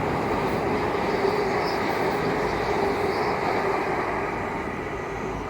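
Great Western Railway Class 802 bi-mode passenger train passing through the station: a steady running rumble with a constant hum, easing slightly near the end.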